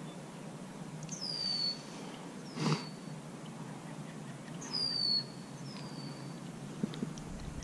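A small bird calling with four thin, high whistles, each sliding downward in pitch, spaced over a few seconds. A short bump from handling the fish sounds once about a third of the way in.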